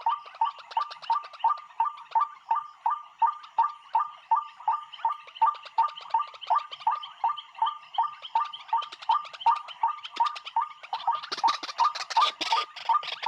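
A bird calling over and over in a steady rhythm, about three short calls a second. A noisier, harsher sound joins in near the end.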